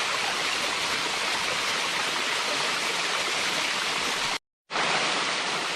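Water of a small multi-tiered creek waterfall rushing and splashing over its ledges, a steady, even rush. It cuts out completely for a split second about four and a half seconds in, then carries on.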